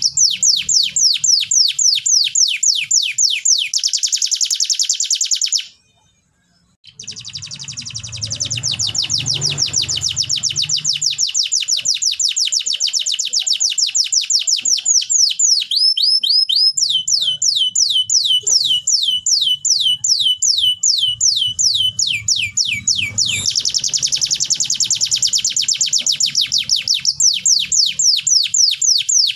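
Domestic canary singing: long trills of rapidly repeated high falling notes, the repeated note type changing from one trill to the next. The song drops out for about a second around six seconds in, then carries on.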